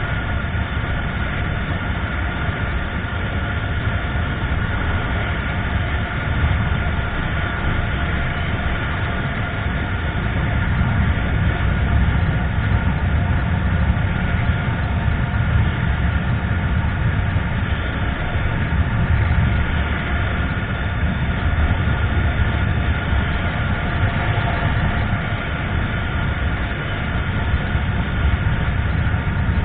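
Motorcycle on the move: steady wind rush and road rumble over the engine running at an even pace.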